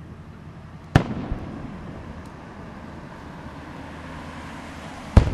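Aerial firework shells exploding: two sharp booms, one about a second in and one near the end, each followed by a short low rumble as the report echoes.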